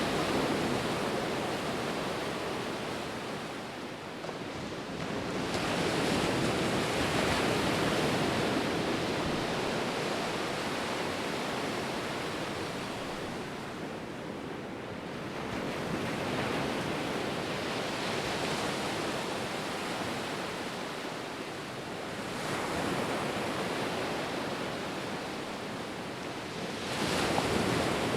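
Sea waves breaking on a shore, the surf swelling and easing every five to ten seconds.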